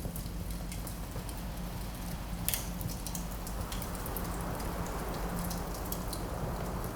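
Wood fire crackling with many small irregular pops and one sharper crack about two and a half seconds in, over a steady rush of wind that swells slightly partway through.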